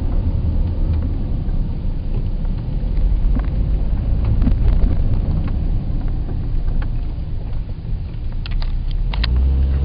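Car driving along a road: a steady low rumble of engine and tyres, with a few sharp clicks near the end.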